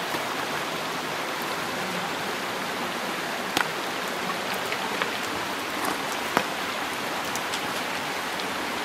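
Steady rushing water noise with a few sharp clicks scattered through it.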